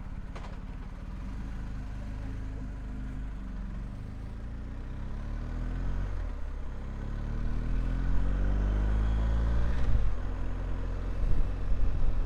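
Motorcycle engine pulling away and accelerating. Its pitch rises in two sweeps through the second half, with a drop between them at a gear change, and it gets louder as it goes.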